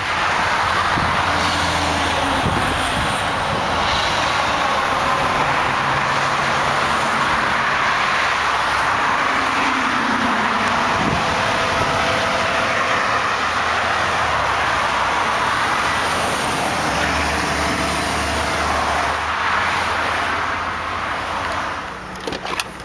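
Steady rushing highway traffic noise from passing vehicles, swelling and easing, dropping away sharply near the end.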